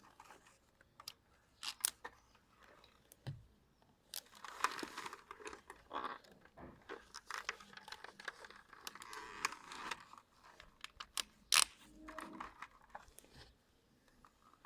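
Faint rustling and crinkling with scattered sharp clicks, like something being handled close to the microphone, with a denser stretch of rustling in the middle and a loudest single click about two-thirds of the way through; no engine is running.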